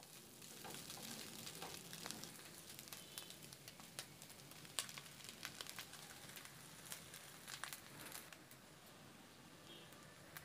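Fried rice ingredients sizzling and crackling faintly in hot oil in a pan, with scattered pops that thin out after about eight seconds.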